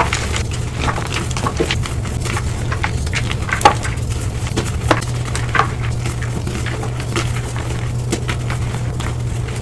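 Gym chalk being crushed, played back at double speed: quick, irregular crunches and crackles, with a steady low hum underneath.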